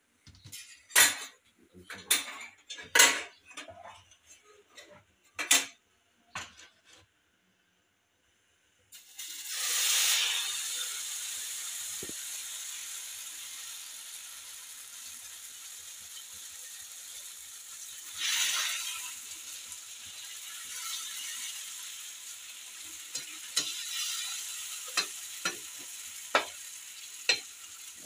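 A few light knocks and clicks at first, then after a short break a steady sizzle starts with a loud onset as batter fries in hot oil in a pan. The sizzle swells again about halfway through, and near the end a spatula clicks against the pan several times.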